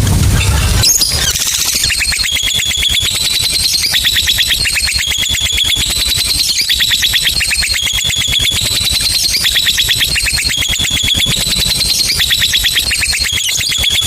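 Lovebird's long 'ngekek' chatter: a very fast, continuous trill of sharp high notes, many per second, starting about a second in.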